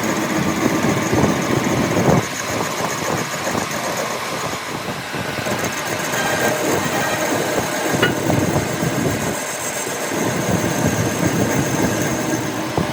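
A machine or engine running steadily, with irregular clattering and knocking throughout.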